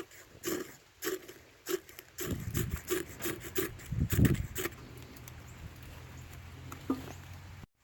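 A tool scraping wood in a run of short rough strokes, about two a second, which stop a little before halfway. A fainter steady low rumble carries on after them, and the sound cuts off abruptly at the very end.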